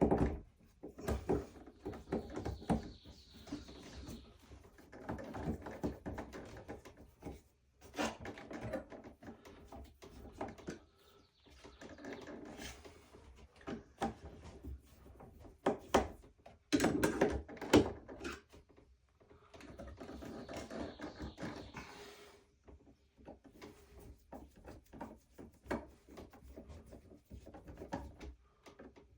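Irregular knocks, thumps and rubbing of hand work in a small wooden room, coming in short clusters with pauses between them, the loudest about two-thirds of the way through.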